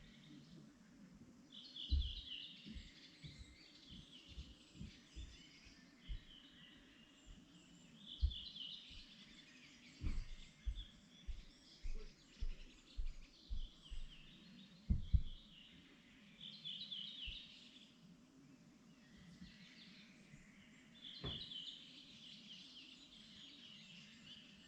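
Songbirds singing in spring, repeating short trilling phrases every few seconds, over irregular low thumps and rumbles that are the loudest sounds, bunched together about halfway through.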